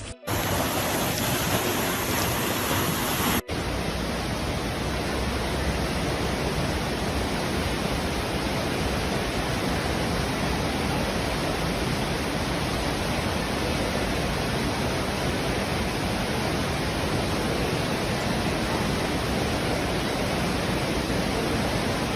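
A loud, steady rushing noise with no distinct events, broken by two brief dropouts, one just after the start and one about three and a half seconds in.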